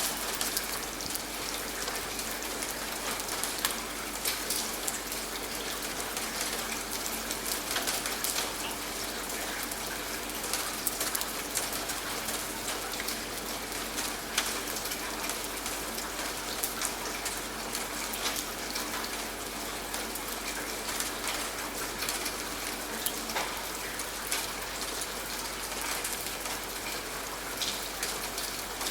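Steady rain falling: a continuous hiss broken by many separate drop hits.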